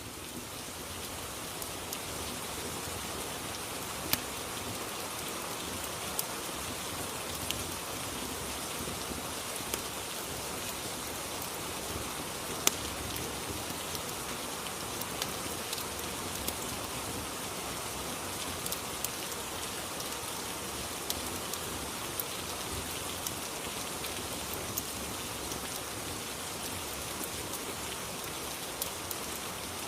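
Steady rain ambience that fades in over the first second or so, with scattered sharp pops like the crackle of a wood fire, one louder pop near the middle.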